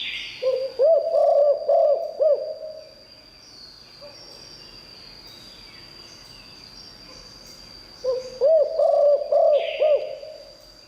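Spotted dove cooing its song: two phrases of several quick, arching coos, the first starting about half a second in and the second about eight seconds in. Quiet between them.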